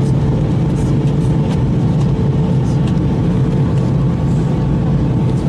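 Steady drone inside an airliner cabin during descent: engine and airflow noise with a strong low hum and a couple of faint steady tones above it.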